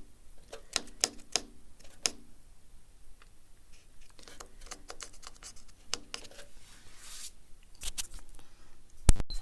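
A run of sharp metal clicks and taps, then quieter scattered taps and handling noise as tools and bolts are worked on. A loud knock comes near the end.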